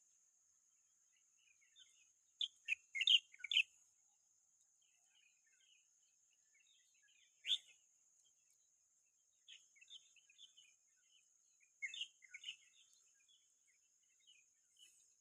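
Wild birds chirping in short clusters of quick calls, loudest about three seconds in, with further bursts near the middle and toward the end, over a steady thin high-pitched whine.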